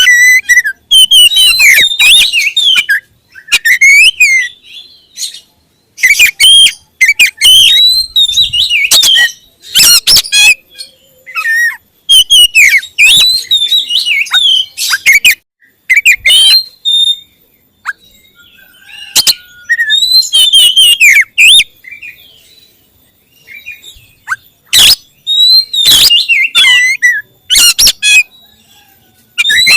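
A songbird singing loudly close by, in bursts of rapid varied whistles mixed with harsh, scratchy notes, each phrase lasting from under a second to a few seconds with short pauses between.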